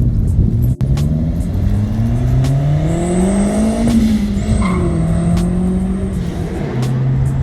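A car engine revving, its pitch climbing for about three seconds, then dropping back and settling into a steady lower note near the end.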